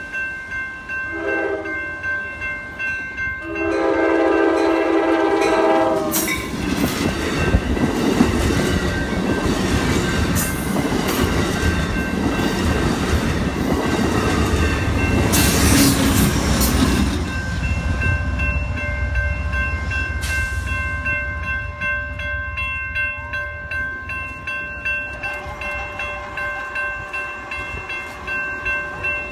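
Amtrak passenger train passing close by. Its horn gives a short toot, then a longer blast a few seconds in, followed by loud rumbling and wheel clatter that fade after about fifteen seconds. A level-crossing warning bell rings steadily throughout.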